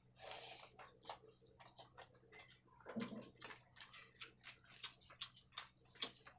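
Faint, close eating sounds: wet chewing and lip-smacking clicks, irregular and several a second, from a mouthful of rice eaten by hand, with fingers squishing rice on a steel plate.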